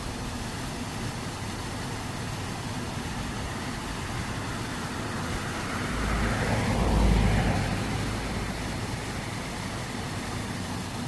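Steady background road traffic. One vehicle drives past, swelling to its loudest about seven seconds in and fading away.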